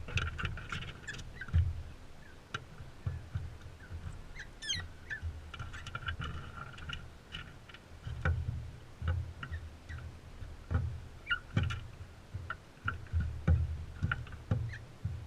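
Crimson rosellas feeding at close range: frequent sharp clicks and knocks of beaks on seed and the feeder, with low thumps. Brief chattering calls come in at the start, and a short whistled call about five seconds in.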